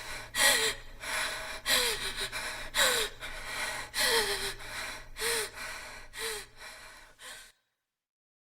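A woman breathing heavily, panting in breathy gasps about once a second, each with a bit of voice that slides down in pitch. The breathing stops suddenly near the end, leaving silence.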